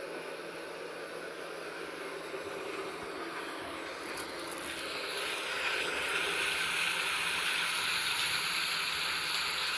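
Steady rain falling, a soft even hiss that grows louder about halfway through.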